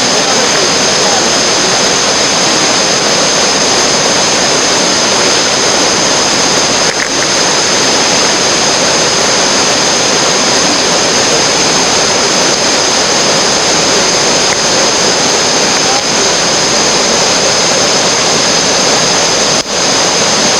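Loud, steady rush of whitewater, as of a river rapid or cascade close to the microphone.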